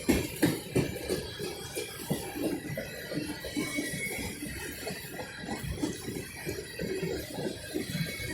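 Freight train's cars rolling past: a run of clicks and knocks from the wheels over the rail joints, with metallic rattling from the cars, easing off in strength through the passage.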